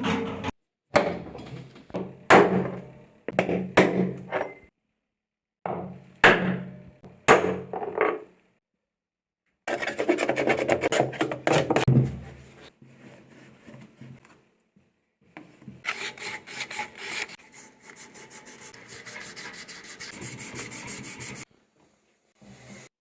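Repair work on a washing machine: a run of sharp knocks, each with a short ring. Then comes a stretch of scraping and rubbing, and later a fast, regular rasping.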